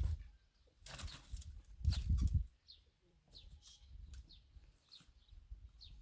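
Short, high, falling chirps of small birds, repeating about every half second to second, over bursts of low rumbling noise and a few clicks.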